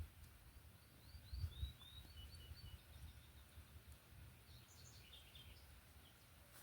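Faint bird chirps: a quick series of short high notes, then a second cluster of high calls a few seconds later, over a low rumble of wind or handling noise.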